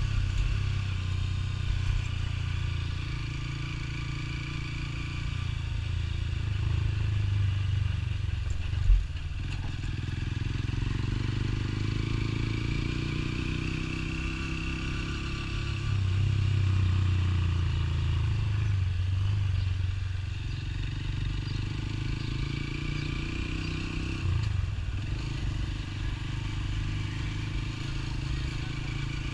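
Motorcycle engine running under way, its pitch rising and falling with the throttle, with one sharp knock about nine seconds in.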